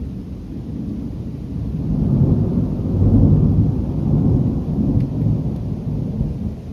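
Rolling thunder from a close lightning strike: a deep rumble that swells a couple of seconds in and eases off near the end, with rain falling underneath.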